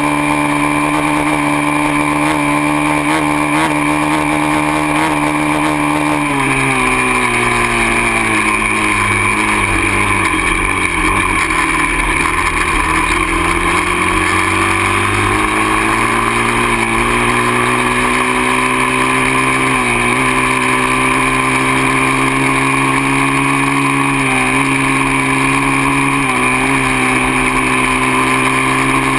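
Dirt bike engine running steadily at speed. About six seconds in, the revs drop away to a low point, then climb back and hold steady, with a few brief dips in pitch near the end.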